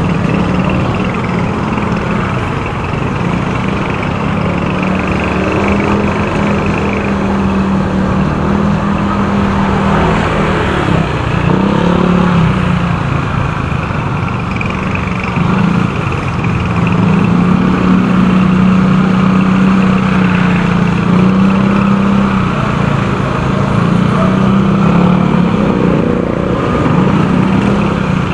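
Motorcycle engine running while being ridden, its pitch rising and falling with the throttle, over steady wind and road noise.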